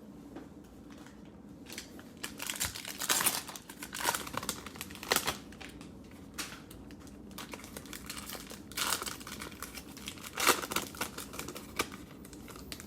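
Cellophane wrapper of a trading card pack being torn open and crinkled, in two bouts of crackling.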